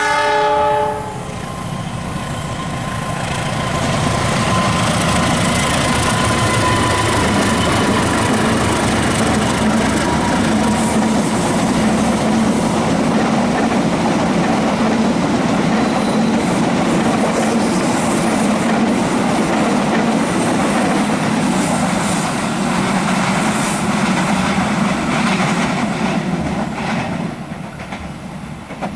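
A train horn sounds a steady chord that cuts off about a second in, then a passenger train runs on the rails with a loud, steady clatter of wheels that fades near the end.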